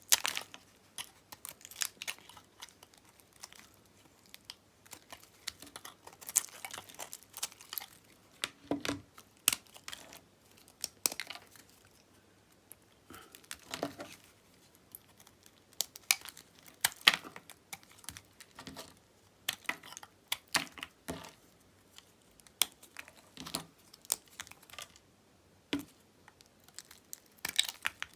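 Dyed bar soap being cut with a knife: short, crisp crackles and snaps at irregular intervals, with brief pauses between cuts.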